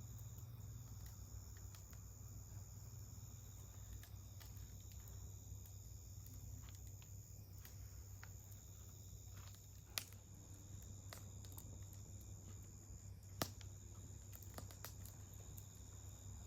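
Wood campfire crackling quietly: scattered small pops of burning wood, with two sharper pops about ten and thirteen seconds in. A steady high insect trill runs underneath.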